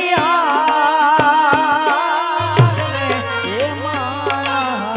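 Live Gujarati wedding-song music: tabla strokes keeping the rhythm under a wavering, sustained melody line. A low steady drone drops out early on and comes back about two and a half seconds in.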